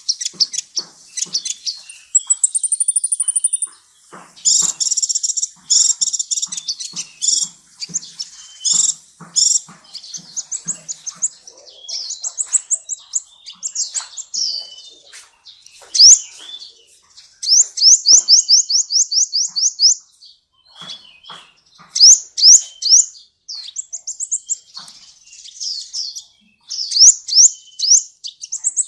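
A sunbird singing busily: high, thin chirps and rapid trills of quickly repeated sweeping notes, in bursts separated by short pauses.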